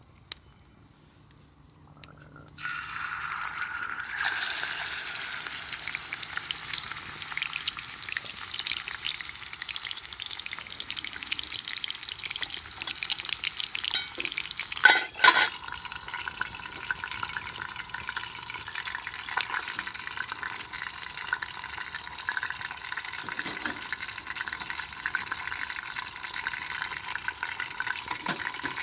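Food sizzling and crackling over a campfire, starting suddenly about two and a half seconds in and going on steadily, with two brief louder sounds around the middle.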